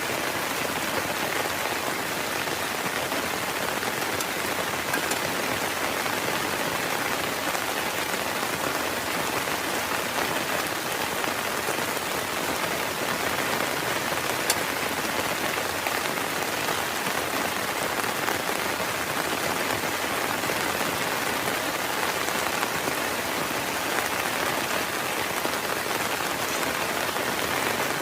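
Heavy rain falling steadily, a dense even hiss of drops with scattered sharper drop hits, one a little louder about halfway through.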